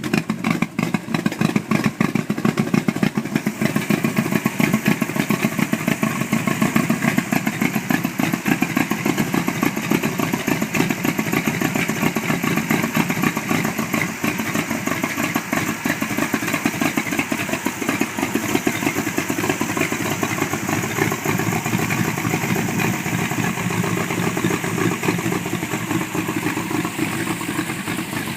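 Hot rod truck's engine running steadily, its exhaust pulsing fast and even.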